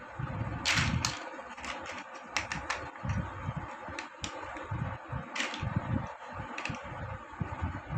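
Plastic building blocks clicking and clattering irregularly as pieces are handled and pressed together, with dull knocks against the work surface.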